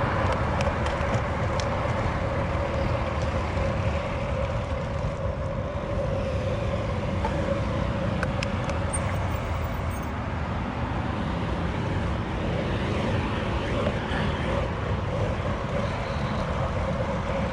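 Steady road and traffic noise around a cyclist riding a road bike among cars, with a low rushing noise and a steady hum throughout.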